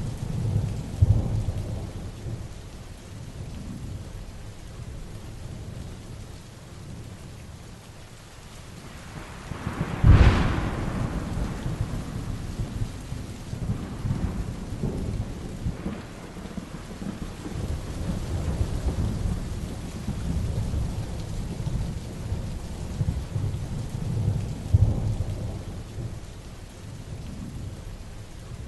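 Heavy rain falling steadily during a thunderstorm, with thunder rumbling. About ten seconds in, a sharp, close thunderclap is the loudest moment; lower rolls of thunder come near the start and near the end.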